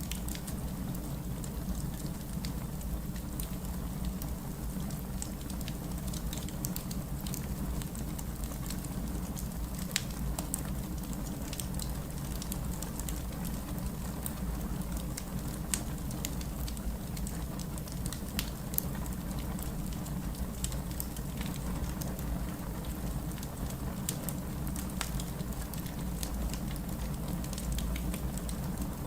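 Fireplace fire crackling with scattered sharp pops, a few of them louder, over a steady hiss of rain.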